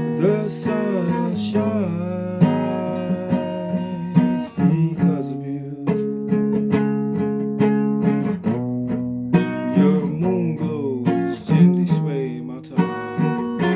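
Guitar being played: strummed chords ringing out, with some notes sliding up and down in pitch over them.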